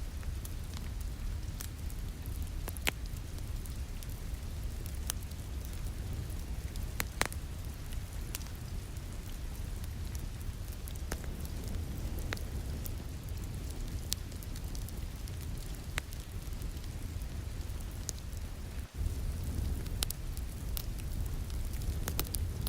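Wood fire in a fireplace crackling, with sharp pops at irregular intervals over a steady low rumble of rain. The sound drops out for an instant a few seconds before the end.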